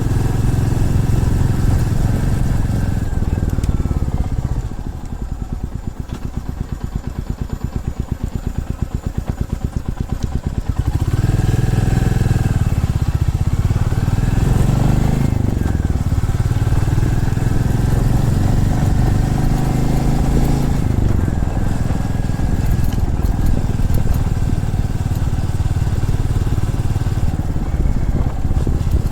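Motorcycle engine running on the move. About five seconds in it drops to a slow, lower throb, and about eleven seconds in it picks up again, with revs rising and falling through the gears before settling into steady running.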